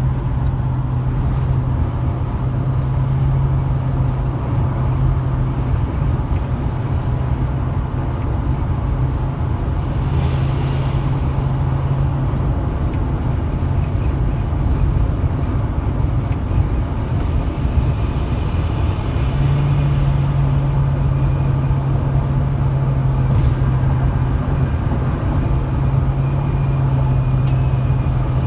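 Chevrolet 2500HD's 6.0-litre V8 running steadily on the road, heard inside the cab over tyre and road noise. The engine note steps up slightly about two-thirds of the way in.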